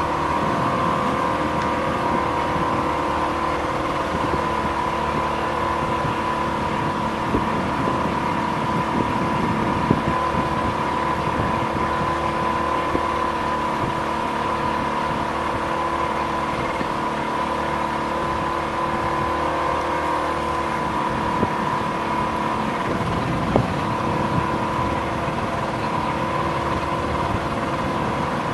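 A boat's motor running at a steady, unchanging drone, with a constant hum over a rush of noise.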